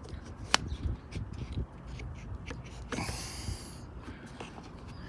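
Primer bulb on a 25cc trimmer carburetor being pumped by hand, with soft handling noises, a sharp click about half a second in and a short hiss about three seconds in.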